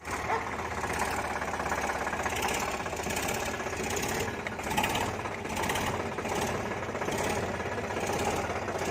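Tractor diesel engine running steadily, with a rapid, even knock.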